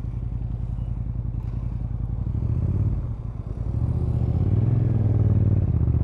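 Motorcycle engine running under the rider, picked up by a mic on the bike or helmet; it eases off about three seconds in, then pulls back up, louder.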